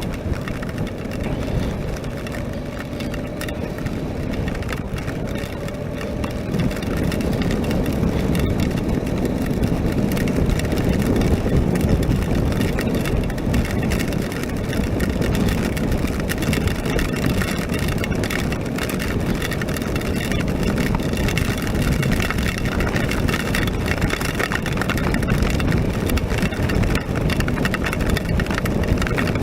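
Honda NC700X motorcycle's parallel-twin engine running at riding speed, under wind and tyre noise on a wet road. It grows louder about seven seconds in, then holds steady.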